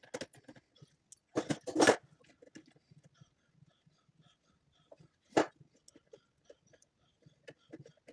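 Handling noises: scattered small clicks and taps, with a loud double clatter about one and a half seconds in and a single sharp knock a little past five seconds.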